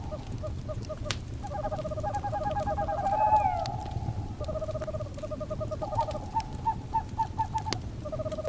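Owls calling in a series of rapid trills, with a falling, wavering call about three seconds in and a run of short separate notes near the end. Sharp crackles of a wood fire pop over the fire's low steady rumble.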